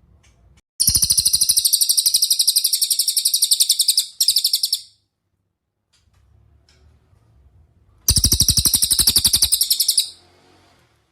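Cililin bird singing a fast, even, high-pitched trill in two bouts. The first lasts about four seconds and has a brief break near its end. After a pause of a few seconds, a second bout lasts about two seconds.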